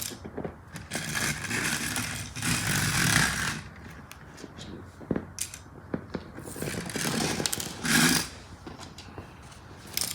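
LEGO police car's plastic wheels rolling and scraping across a surface in a few runs, with the loose bricks rattling and clicking. The rattle comes from parts working loose as it bumps along.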